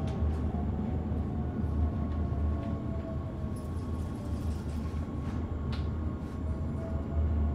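Running noise of a Forchbahn metre-gauge railcar heard from inside the passenger compartment while it runs on street tram tracks. There is a steady low rumble, a faint whine that slowly drops in pitch over the first few seconds, and a few light clicks.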